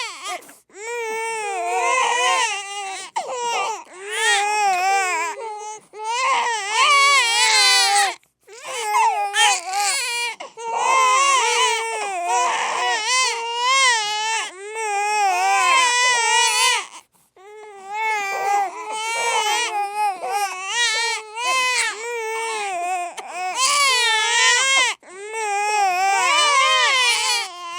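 Babies crying together: loud, wavering wails that go on almost without a break, with short pauses for breath every few seconds.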